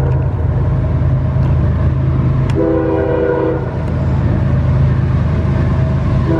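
Diesel locomotive running close by with a steady engine drone, sounding its multi-chime air horn: one short blast about two and a half seconds in, and another starting near the end.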